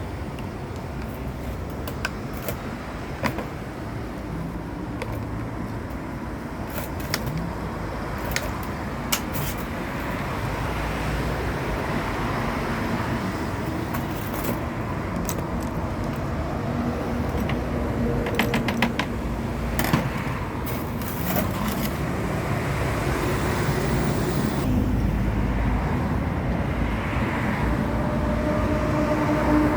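Steady traffic noise with scattered sharp clicks and clinks, including a quick run of clicks about two-thirds of the way through.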